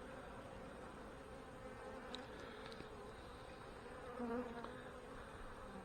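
A honey bee colony buzzing steadily around an opened hive during a frame inspection, a faint even hum that swells briefly about four seconds in.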